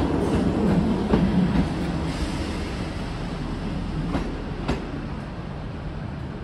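A Great Western Railway Class 158 diesel multiple unit runs past and moves away. Its engine rumble and wheel noise fade as it goes, with a few sharp clicks as the wheels cross rail joints.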